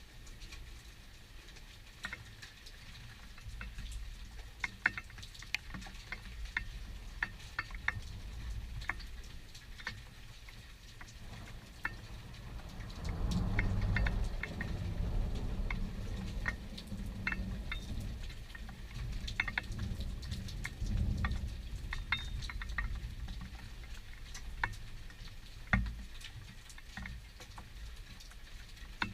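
Thunderstorm sound: raindrops ticking and pattering throughout. About halfway through, thunder rolls in with a low rumble that swells, eases and rumbles again for several seconds before dying away.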